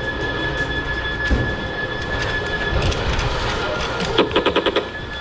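Laser tag blaster firing a rapid burst of about seven electronic shots near the end, over a steady rumbling background with a held high tone.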